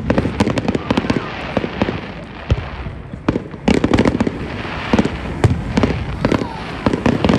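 Fireworks exploding in quick succession: a dense run of bangs and crackles, easing off around the middle and building again in the second half.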